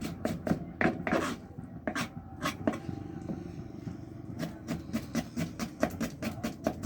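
A knife chopping on a cutting board: sharp knocks, irregular at first, settling about halfway into a steady run of about four to five a second. A steady low hum runs underneath.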